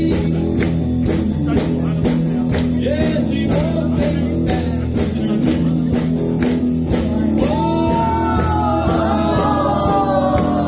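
Band playing a rock song: guitar and bass chords over a steady drum beat, with a voice singing over it from about three-quarters of the way through.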